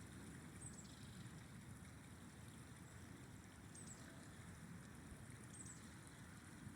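A river flowing steadily, heard as a faint, even low rush of water. Three brief high chirps cut through it, the first about half a second in and the others near the four- and five-and-a-half-second marks.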